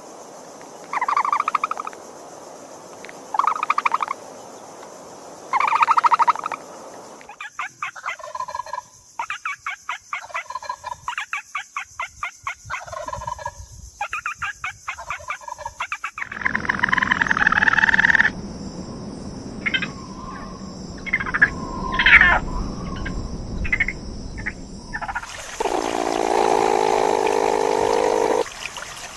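A run of different animal calls cut one after another. First come four calls of about a second each, a couple of seconds apart. Then a fast series of pulsed calls, then a noisier stretch with sharp short calls, and finally a steadier lower call.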